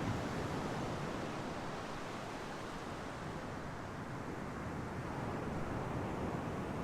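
Ocean surf washing on a shore: a steady rushing hiss that eases after the first couple of seconds and swells again near the end.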